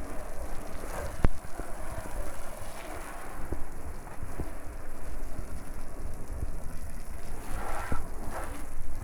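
Water spraying and splashing onto a car's bodywork, a steady hiss with a sharp click about a second in.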